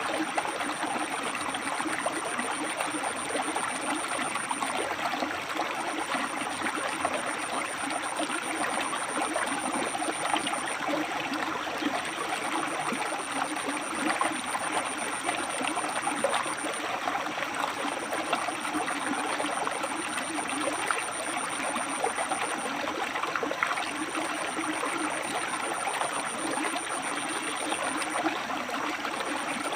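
River water flowing and splashing steadily over rocks. A thin high tone sounds over it, stopping briefly and starting again every five or six seconds.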